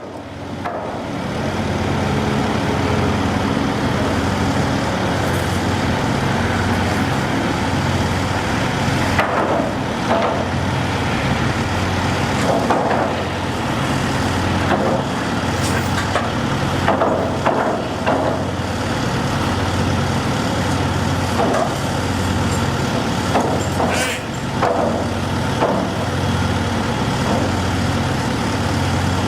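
Heavy diesel engine running steadily with a low, pulsing hum. Several sharp clanks and knocks come through it, mostly in the middle stretch.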